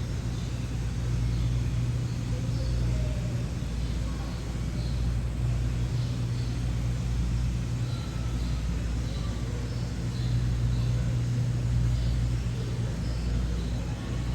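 A steady low hum, with faint voices in the distance.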